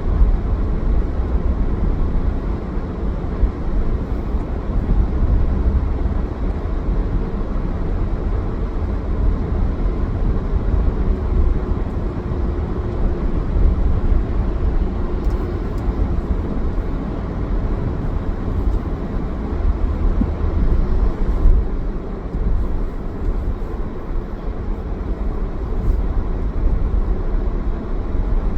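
A car on the move: steady low road and engine rumble with tyre noise, no sudden events standing out.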